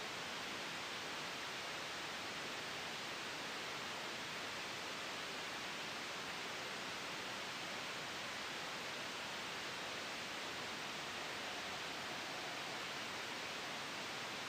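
Steady, even hiss of sleep white noise, soft and unchanging, with no gusts or sudden changes.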